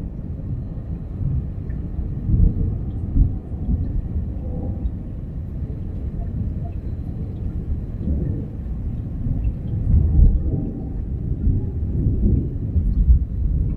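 Thunder from a positive lightning strike rolling on as a low, continuous rumble that swells and fades in several surges, loudest about ten seconds in.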